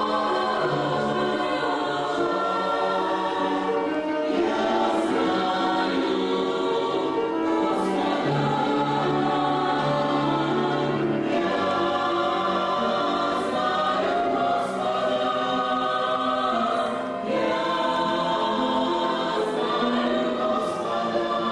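A church vocal group singing a Christian hymn together in harmony, with long held notes.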